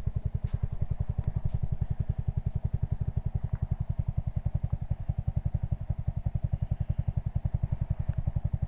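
Honda Grom's 125 cc single-cylinder four-stroke engine idling steadily, an even putter of about ten beats a second.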